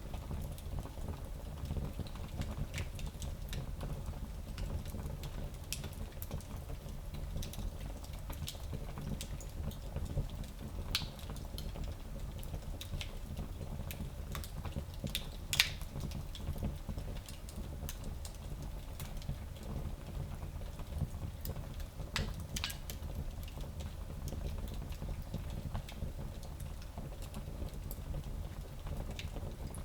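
Wood fire burning in a small fireplace: a steady low rumble with scattered crackles and pops, the sharpest about halfway through.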